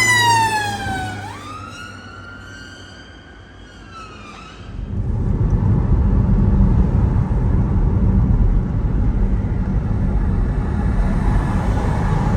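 Emergency vehicle siren wailing: the tone falls, jumps back up and climbs slowly, then cuts off about four and a half seconds in. A loud low rumble takes over and runs on.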